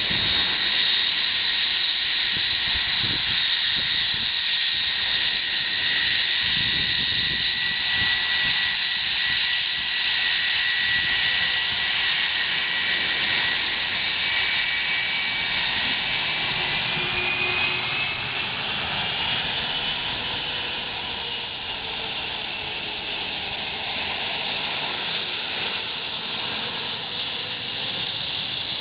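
Boeing 757 jet engines blasting at close range from behind: a steady rush of jet noise with a high whine over it. Gusty low rumbles buffet the microphone during the first half. Partway through, one whine tone rises slightly and the blast eases off a little.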